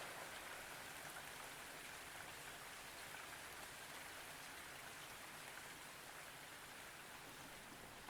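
Faint, steady rain falling: an even hiss.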